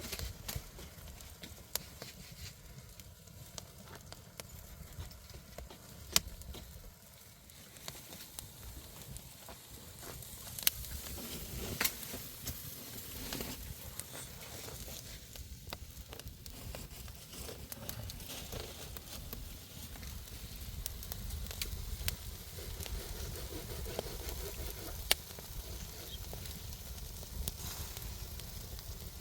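Irregular crackling and sizzling, with scattered sharp snaps over a low steady rumble.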